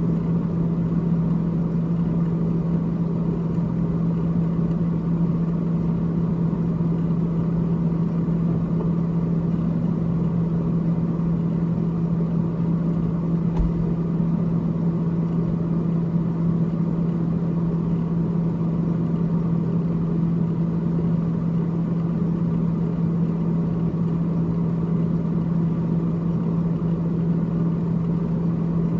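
Freezer evaporator fan of a GE GTH18XCTZRBB refrigerator running, a steady hum with one strong unwavering tone. One brief low knock about halfway through.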